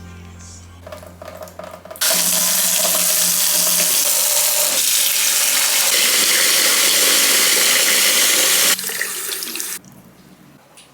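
Water tap running hard into a sink. It starts suddenly about two seconds in, runs steadily for about seven seconds, and is shut off, with a quieter trickle for about a second after.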